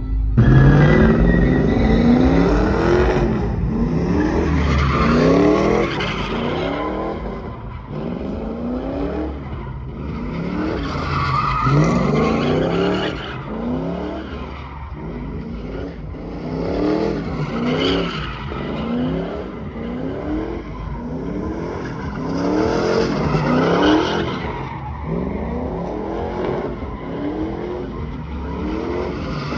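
Truck doing a burnout: the engine revs up again and again in rising sweeps while the rear tires spin and squeal against the pavement.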